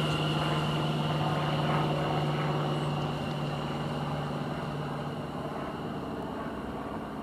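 Greater Anglia Class 720 electric multiple unit at the platform, coming to a stand after arriving. Its steady low electric hum fades away about five seconds in, over a steady high whine, and the overall sound gradually quietens.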